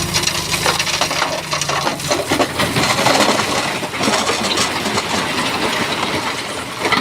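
Stones clattering and grinding as a Shantui bulldozer blade pushes rock, a dense continuous crackle of many small knocks. The dozer's diesel engine runs low underneath for the first couple of seconds, then drops back.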